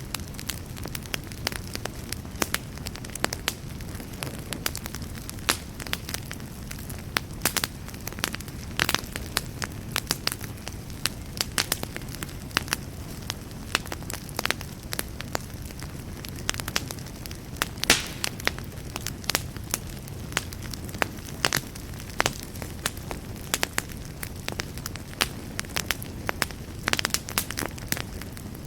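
Fire burning in a fireplace, crackling steadily with frequent sharp, irregular pops over a low, even rumble of flame.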